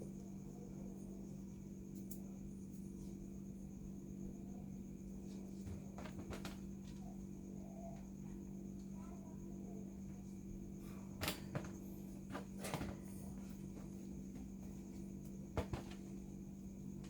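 Steady low electrical hum, with a few scattered light clicks and taps, most of them between about 11 and 16 seconds in.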